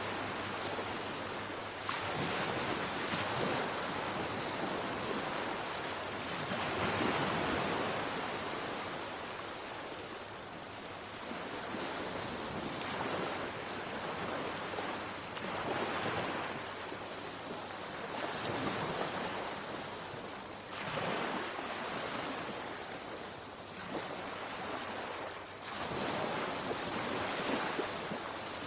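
Calm sea waves breaking and washing up the shore, one surge after another every few seconds, with a steady hiss of water between them.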